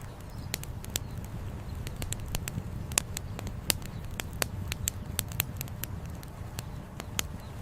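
Wood campfire crackling, with irregular sharp pops and snaps, a few louder ones, over a steady low rumble.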